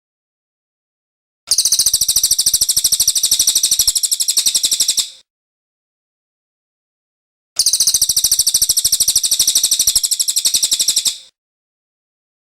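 Cililin songbird singing two long, fast, high-pitched trills of rapidly repeated notes, each lasting about three and a half seconds, with a clean silent gap between them.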